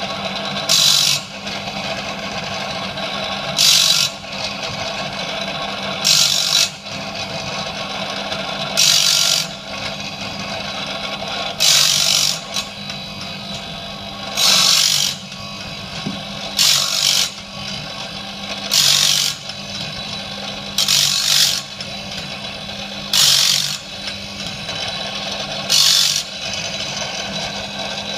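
Electric chainsaw-sharpener grinding wheel, set in a bandsaw blade jig, running with a steady hum and grinding a short burst each time it is brought down on a bandsaw blade tooth, about eleven times, every two to three seconds. The wheel is sharpening the blade tooth by tooth.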